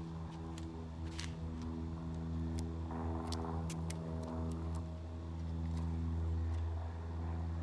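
Steady low machine hum, like an idling engine, with scattered light clicks and crinkles over it.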